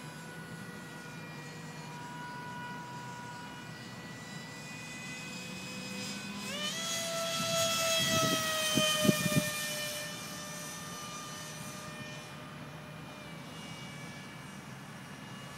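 Electric ducted fan of an RC F-35 jet model whining. About six and a half seconds in its pitch jumps and it swells louder, then the whine slowly falls in pitch and fades. A few low thumps come at the loudest point.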